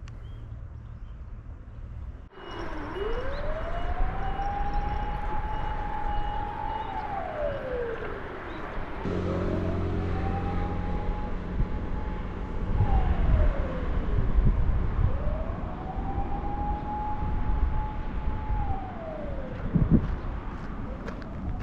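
A siren wailing in three long cycles. Each cycle rises quickly to a held high note, holds it for a few seconds, then falls away.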